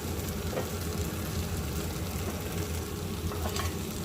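Pork belly stir-fried in soy sauce seasoning sizzling steadily in the pan, with a few faint clicks.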